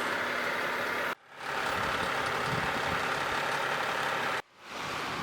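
Steady hum of idling vehicle engines with a constant noise bed. The sound cuts out abruptly twice, about a second in and again near the end, and fades back in each time.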